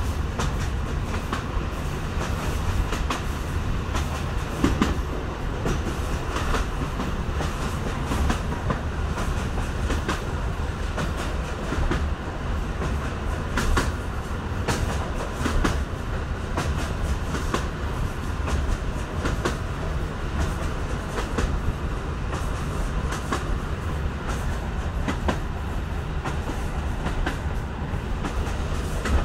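Ride noise inside a moving EN57 electric multiple unit: a steady low rumble with frequent, irregular clicks.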